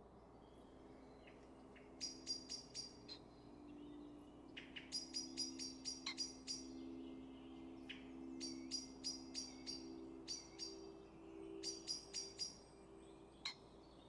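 A bird calling in several quick runs of short high chirps, about six a second, over a steady low hum.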